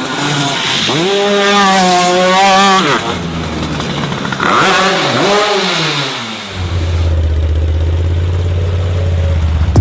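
Mini truck engines revving up and easing off three times, then settling into a steady low drone for the last third.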